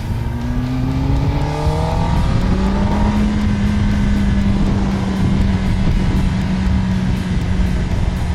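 Kawasaki ZX10R's inline-four engine pulling up through the revs for about the first two and a half seconds, then holding a steady pitch.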